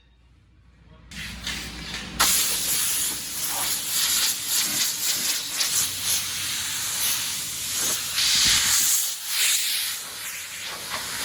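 A steady, loud hiss that starts about a second in and grows louder about two seconds in.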